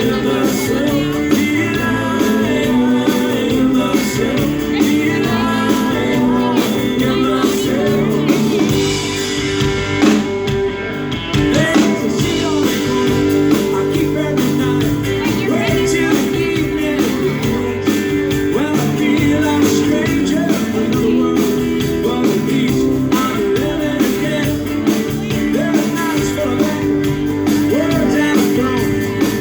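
Live rock band playing with a singer and guitars, the music steady and loud.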